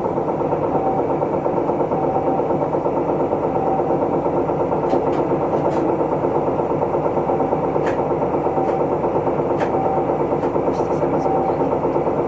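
Isuzu Erga Mio city bus's four-cylinder diesel engine idling steadily, heard from inside the cabin. A short high beep repeats at even intervals throughout.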